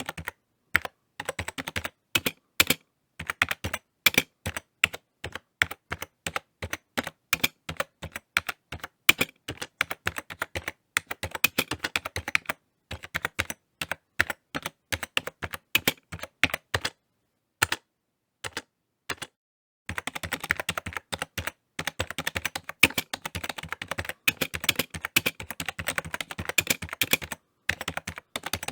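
Typing on a computer keyboard: quick runs of sharp key clicks with short pauses, sparser and broken by brief silences midway, then fast and dense again for the last third.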